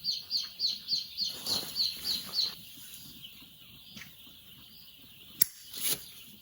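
Chicks peeping: a fast, even run of high falling peeps, about four or five a second, that stops about two and a half seconds in. A sharp click follows about five and a half seconds in.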